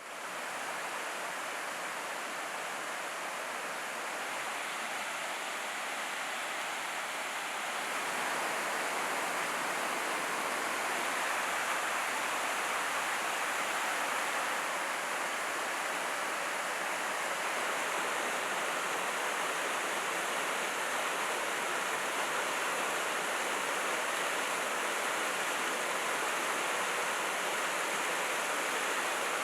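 Mountain valley stream rushing after rain, a steady wash of running water that gets somewhat louder about eight seconds in.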